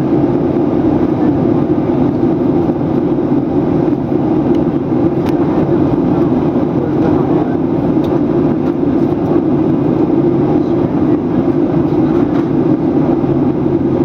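Steady cabin noise inside a Boeing 737-800 in flight, the even rush of its engines and airflow. Its low hum holds level, with a few faint ticks.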